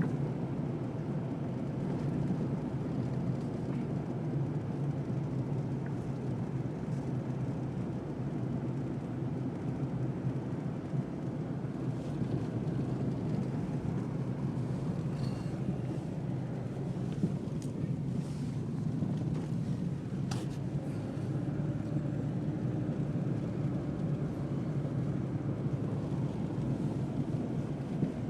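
Car driving: a steady low drone of engine and tyre noise, with a few faint clicks past the middle.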